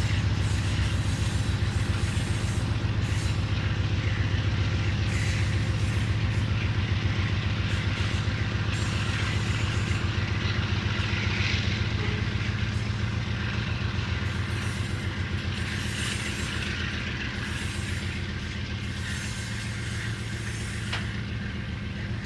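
Union Pacific GE ES44AC and AC44CW diesel locomotives working under load as they pull away, their engines a steady low drone that slowly fades. Freight cars roll past on the rails.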